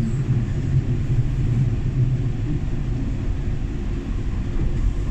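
Steady low rumble inside a Docklands Light Railway train carriage.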